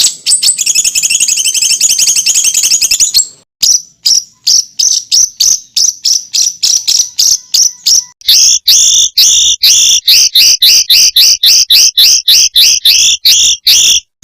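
Songbird song-tutor recording of rapid-fire calls. A fast buzzy high trill lasts about three seconds; after a short break come long runs of quick, evenly spaced high chirps. About halfway through these turn into two-part notes that drop in pitch, around five a second.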